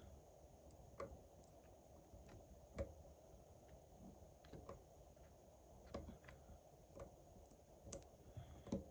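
Near silence with faint, scattered clicks and light taps of small parts and hand tools being handled.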